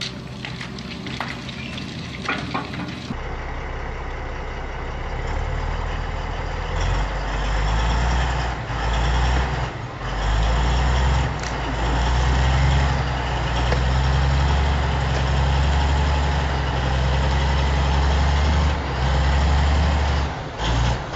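A few seconds of crackling noise, then a heavy truck engine running with a loud, deep drone that swells and dips.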